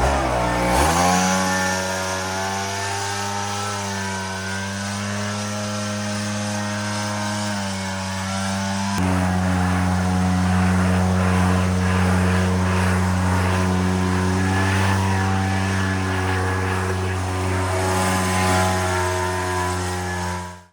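Small petrol engine of a handheld garden power tool running at a high, steady speed. It settles in pitch in the first second, and its level jumps abruptly about nine seconds in.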